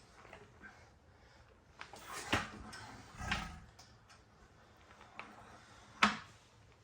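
A few scattered sharp clicks and knocks, with one low thud about three seconds in, as a 3.5–4 hp Novo hit-and-miss engine is worked at by hand and fails to run. It makes no steady firing rhythm, and the owner suspects the buzz-coil spark is not hot enough.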